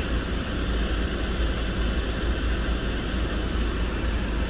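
Ford Focus Mk2 diesel engine idling steadily with the cabin fan blowing, heard from inside the car: a steady low hum and rush. The engine is at idle under electrical load while it stabilises before a static DPF regeneration.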